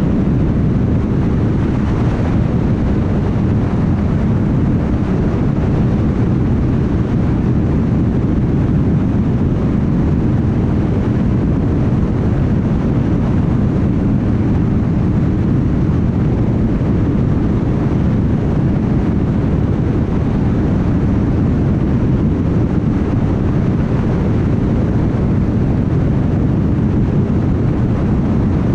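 Car travelling at highway speed: a steady low rumble of tyre and road noise with engine hum, unchanging throughout.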